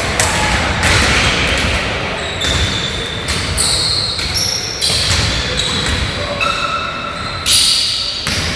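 Basketball game play in a large hall: the ball bouncing on the court, with short, high sneaker squeaks scattered through.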